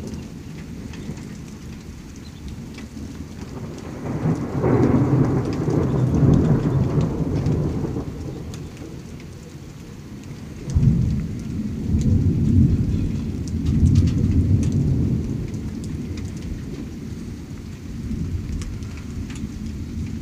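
Thunder rumbling over rain. A long roll builds about four seconds in, and a second peal starts sharply about eleven seconds in, rolls on for several seconds and fades. Raindrops tick throughout.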